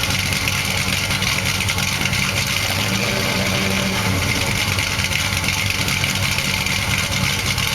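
1970 Dodge Charger's 400 cubic inch big-block V8 idling steadily. The owner says the carburettor needs adjusting but the engine runs quite smoothly.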